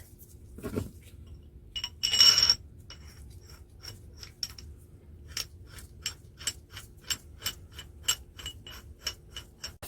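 A thump, then a short rush of noise with a metallic ring, followed by an even run of sharp ringing metallic clicks, about three a second.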